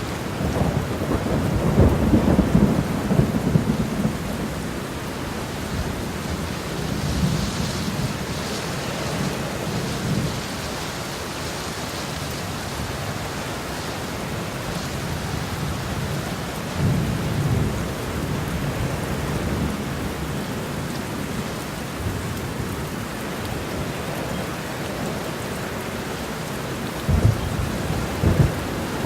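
Thunderstorm: steady heavy rain with low rolling thunder rumbles, the strongest in the first few seconds, another about two-thirds of the way through and two short ones near the end.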